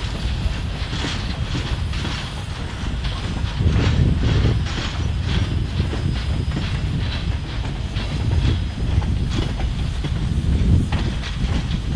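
Train of stainless-steel passenger cars rolling through a rail yard: a steady low rumble with irregular clacks of the wheels over rail joints and switches.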